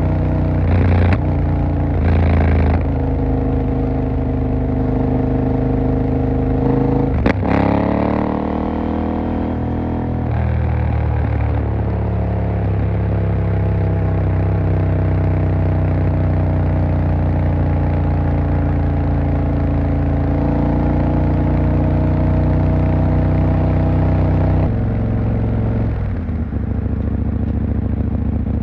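KTM 890 Duke R's parallel-twin engine running under way, with two short throttle blips in the first few seconds. About seven seconds in comes a sharp click, then the revs rise. It settles into steady cruising revs, which step down twice near the end.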